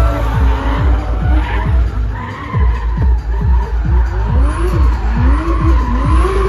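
Drift cars' engines revving up and down with tyres skidding and squealing, over music with a steady beat of about two a second.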